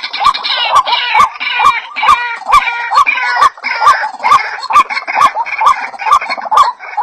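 White-breasted waterhens calling in a chorus, a bird-luring recording. A hooked croaking 'ruak' note repeats about twice a second over a busier jumble of higher calls, with sharp clicks at a similar even pace.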